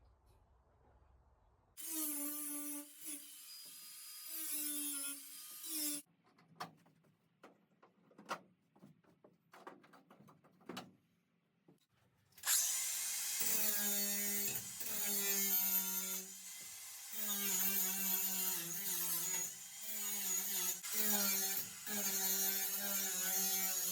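A handheld power drill running in repeated bursts as it works rivets out of a caravan chassis, its motor pitch dipping under load. In the middle there is a spell of sharp metallic clicks and snaps, rivet stems being broken off.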